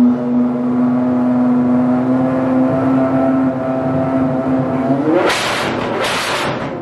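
Apollo Intensa Emozione's 6.3-litre naturally aspirated V12 running steadily, then about five seconds in its pitch climbs into two short, sharp revs.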